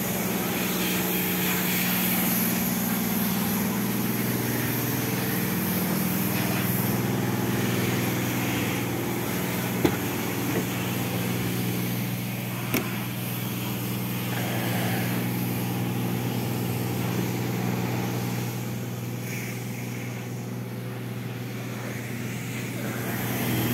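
Citroën Saxo 1.1i's petrol four-cylinder engine idling steadily, with two short sharp clicks partway through.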